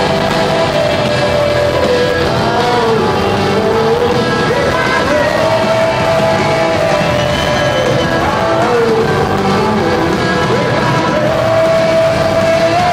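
Rock band playing live, a melody line of long held notes sliding between pitches over the full band.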